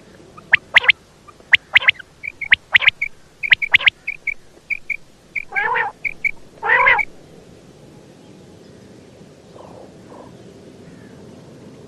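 Female common quail calling: a quick run of sharp, short calls mixed with small high chirps, including two longer, lower calls, stopping about seven seconds in.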